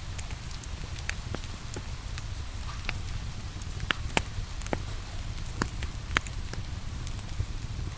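Wood fire crackling, with scattered sharp pops at irregular moments, over a steady hiss of falling rain and a low rumble.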